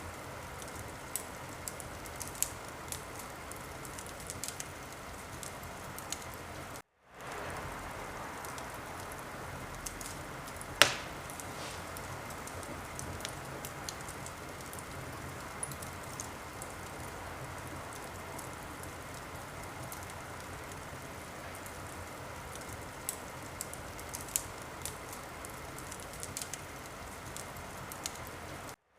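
Wood fire crackling in a fireplace: a steady soft hiss with scattered small crackles and one loud pop about eleven seconds in. The sound cuts out for a split second about seven seconds in and again near the end.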